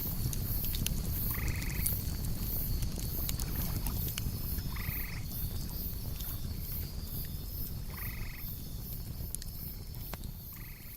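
Campfire crackling over a low rumble, with crickets chirping steadily. A short rasping animal call comes four times, about three seconds apart. Everything fades out near the end.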